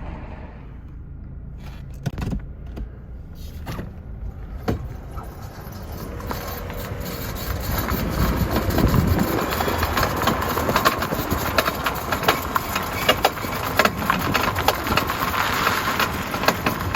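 A 2006 Suzuki Forenza being driven slowly: after a few clicks and a knock, engine and road noise build from about six seconds in, with irregular clicking and knocking over it. It is the noise from the driver's front wheel area that the shop puts down to a bad wheel bearing.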